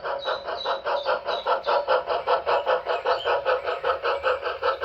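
DCC sound decoder in an HO-scale brass Reading 2-8-0 Consolidation steam locomotive model playing steam exhaust chuffs in a fast, even beat of about six a second.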